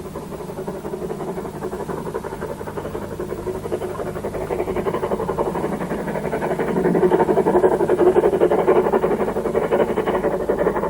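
Three-cylinder LMS Jubilee steam locomotive 5596 Bahamas working hard up a climb, its rapid exhaust beats growing louder as it approaches and loudest about two-thirds of the way in.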